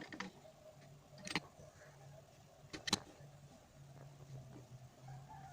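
Hand tools and loose metal parts of a starter motor clinking and knocking on a workbench: three sharp knocks, the loudest about three seconds in, with lighter ticks between them over a faint low hum.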